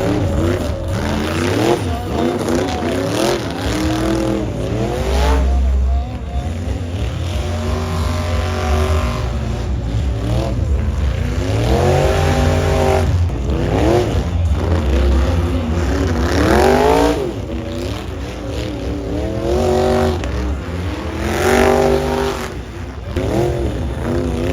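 Several supercross dirt bikes racing around a stadium track, their engines repeatedly revving up and dropping back as riders throttle through jumps and turns, with the overlapping engine notes rising and falling every second or so.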